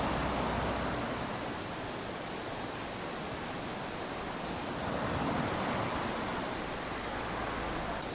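Small waves lapping onto a sandy beach: a steady wash of surf that swells twice, near the start and about five seconds in, then draws back.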